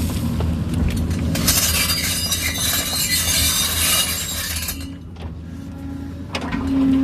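Kobelco excavator's diesel engine running steadily under a loud, scratchy clatter of rock and soil scraping and tumbling, from about a second and a half in until about five seconds in. The engine then eases and picks up again near the end.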